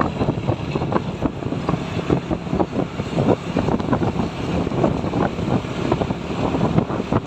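Wind buffeting the microphone in irregular gusts over the running noise of a truck on the move.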